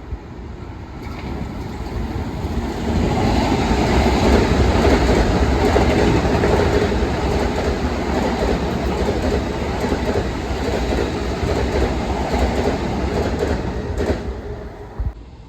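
Long Island Rail Road train passing: the rumble of wheels on the rails builds over the first few seconds, stays loud for about ten seconds, then drops away suddenly near the end as the train clears.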